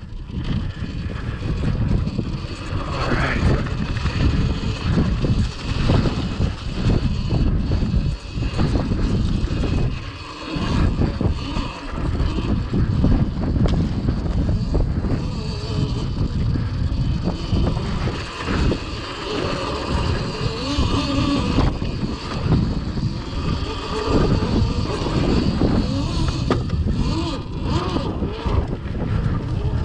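Cake Kalk OR electric dirt bike being ridden over snow: heavy wind buffeting on the microphone over tyre and drivetrain noise and a faint whine that rises and falls. There is a brief lull about ten seconds in.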